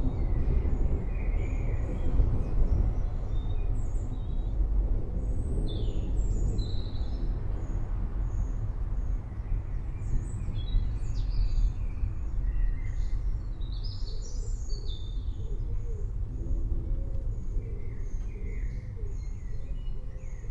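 Low rolling thunder rumbling steadily and slowly easing off, with birds chirping and whistling in short scattered calls throughout.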